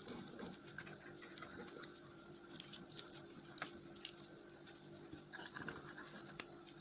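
Faint, irregular wet clicking and squishing of homemade glue-and-borax slime being handled and mixed.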